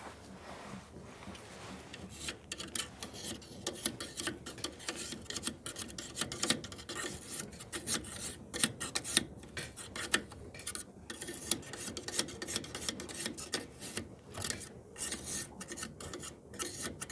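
Rapid, irregular scraping and rubbing as caked lint is cleared by hand out of a Frigidaire dryer's blower housing. That lint build-up is the cause of the dryer's excessive vibration. The scraping starts about two seconds in.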